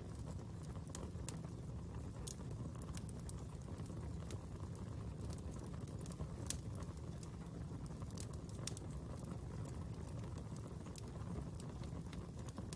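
Fire burning with a steady low rumble and irregular crackles and pops, one sharper pop about six and a half seconds in.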